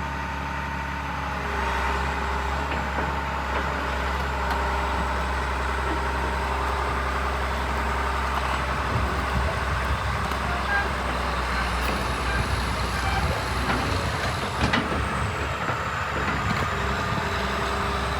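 John Deere 690D-LC tracked excavator's diesel engine running steadily, its low rumble becoming more uneven about halfway through.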